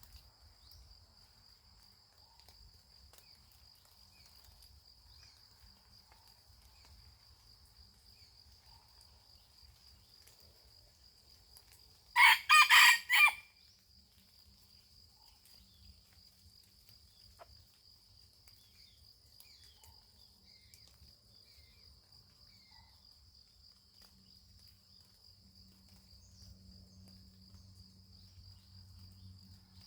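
A rooster crows once, loudly, about twelve seconds in, a single crow of about a second and a half. A steady high insect trill runs underneath.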